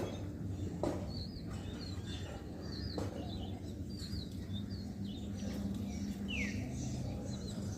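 Birds chirping: a string of short high chirps, one longer chirp falling in pitch about six seconds in, with a few light clicks over a steady low hum.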